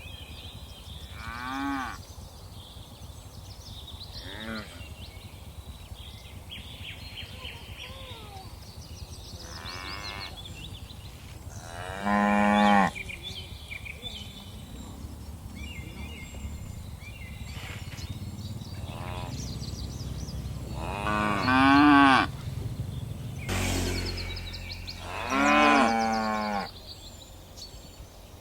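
Cattle mooing, a string of separate calls from the herd, some faint and three much louder: one about twelve seconds in, one about twenty-two seconds in and one near the end. A short rush of noise comes just before the last loud moo.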